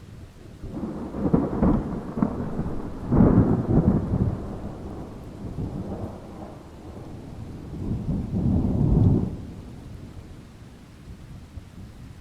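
Thunder rumbling in rolling waves over steady rain, with three loud swells: about one second in, around three seconds in (the loudest) and near eight seconds, each dying back into the rain.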